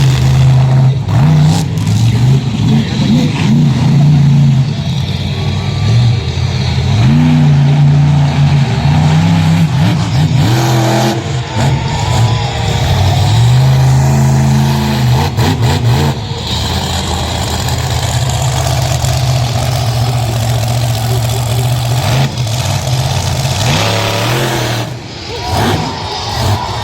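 Monster truck engine running loud and being revved hard again and again, its pitch climbing and dropping, with a brief lull near the end.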